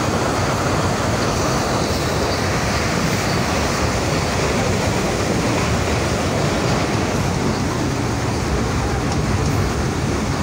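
Passenger train running, heard from inside a coach: a steady, unbroken rumble of the wheels and carriage on the track.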